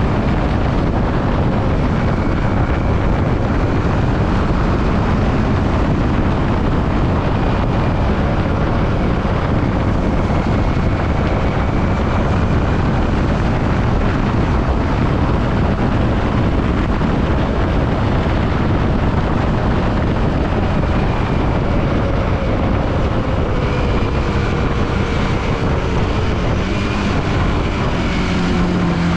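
Yamaha WR155R motorcycle being ridden, its single-cylinder engine running under heavy wind noise on the microphone. The engine note drops toward the end.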